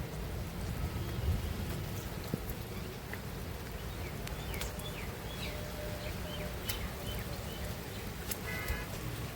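Steady rain falling close to the microphone, with scattered sharp drop ticks over a low rumble. A few short high chirps come about halfway through.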